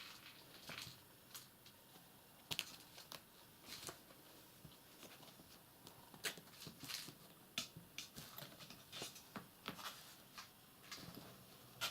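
Faint, irregular scratching, tapping and rustling of kittens moving about, a dozen or so small clicks scattered through it.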